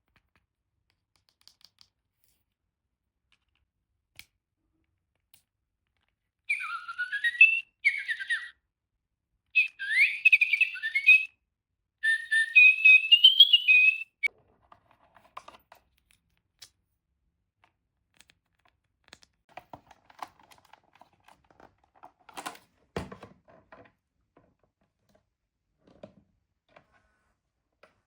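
Electronic interactive toy bird chirping and whistling in three bursts of gliding tweets. These are followed by faint rustling and ticking, with one sharper click near the end.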